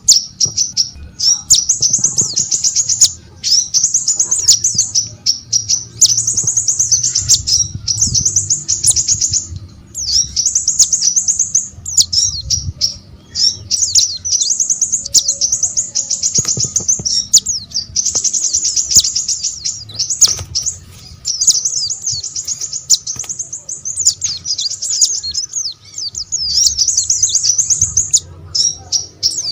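A small songbird singing in long, rapid, high-pitched twittering phrases, almost without pause, with brief breaks every few seconds.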